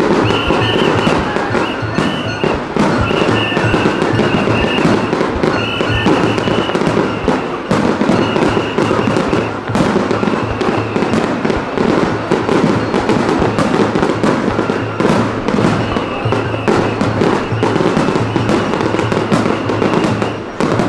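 Dense, irregular crackling and popping of fireworks from a daytime 36-inch sanshakudama shell burst, with music playing under it.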